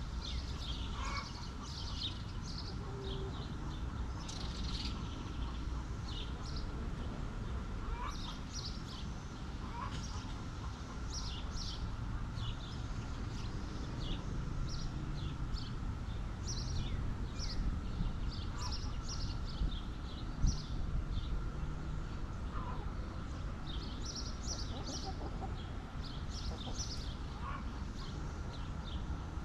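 Chicken flock and small birds: frequent short, high chirps throughout, with a few lower calls now and then, over a steady low rumble. A single dull thump about twenty seconds in.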